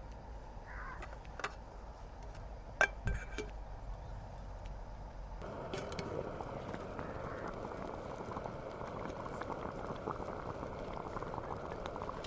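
A few light clicks and clinks, then about five and a half seconds in a steady crackling sizzle starts suddenly and continues: food frying over the camp stove.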